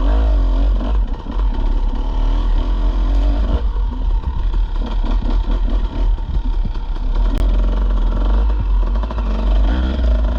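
Dirt bike engine running as it is ridden along a trail, its pitch rising and falling with the throttle. There are scattered knocks and rattles in the middle.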